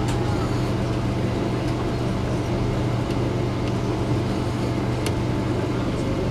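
Passenger train carriage in motion heard from inside: a steady rolling rumble with a constant low hum and a few sharp ticks.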